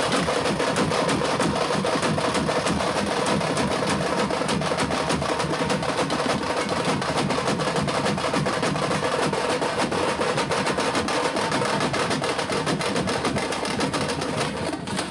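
Tamate frame drums beaten with sticks in a fast, driving, unbroken rhythm of sharp strokes.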